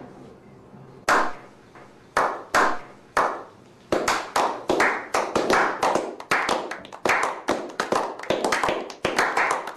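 A slow clap by a small group of men: single hand claps about a second apart at first, then from about four seconds in more hands join and the claps come faster and overlap, each trailing off in a short echo.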